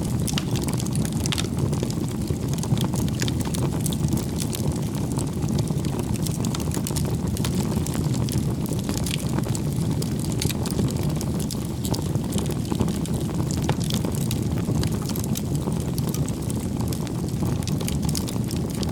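Wood bonfire burning: a steady low rumble of the flames with frequent small crackles and pops throughout.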